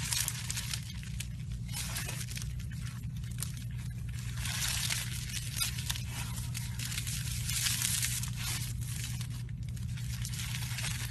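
Slime being squeezed and stretched by hand, giving dense sticky crackling and popping that swells twice, over a steady low hum.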